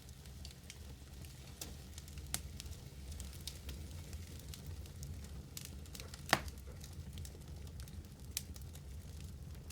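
Wood fire in a fireplace crackling, with scattered sharp pops over a steady low rumble of the flames; the loudest pop comes a little past six seconds in.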